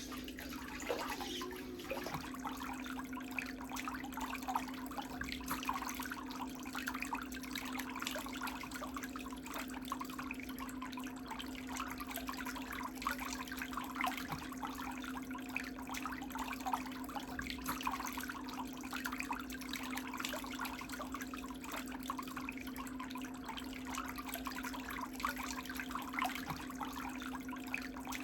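Water splashing and trickling in irregular little bursts over a steady low hum.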